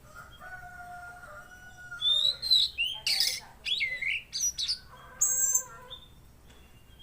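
Tledekan laut (mangrove blue flycatcher) singing: a few soft, held whistled notes, then about two seconds in a loud run of rapid, sweeping high notes that stops about a second before the end.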